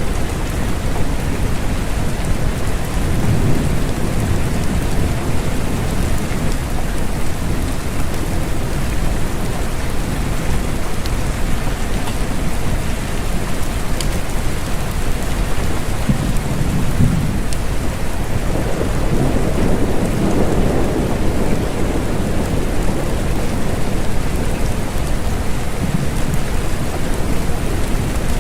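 Steady rain falling. Low rumbles swell up a few times: about three seconds in, and again from about sixteen to twenty-two seconds.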